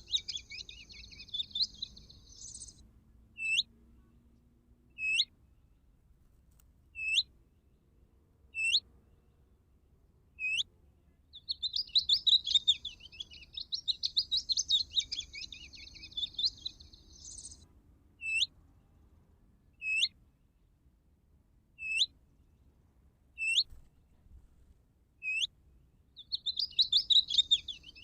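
Recorded songbird voice played on a loop from an electronic bird caller used as a hunting lure: a scratchy, chattering song lasting about six seconds, then a string of single sharp call notes about every second and a half, then the song again.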